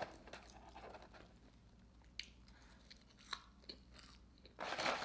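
Quiet close-up chewing with scattered soft mouth clicks, then near the end a loud burst of rustling as fingers dig fries out of a McDonald's paperboard fry carton.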